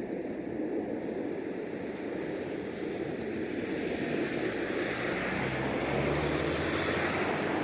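Aircraft passing overhead: a steady rushing engine noise that swells and grows brighter over the last few seconds, with a low hum joining in near the end.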